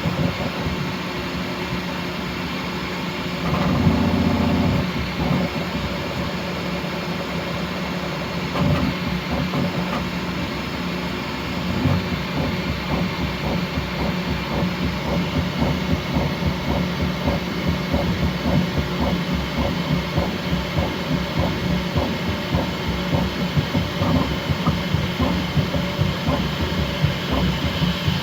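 Bambu Lab X1C 3D printer printing at its top speed: the stepper motors hum and stutter through rapid toolhead moves over a steady fan noise, with a louder stretch about four seconds in and quick, jittery changes in level later on.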